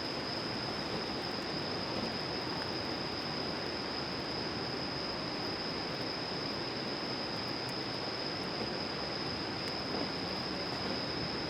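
Steady outdoor ambience: an even rushing hiss with a constant high-pitched whine and a few faint crackles.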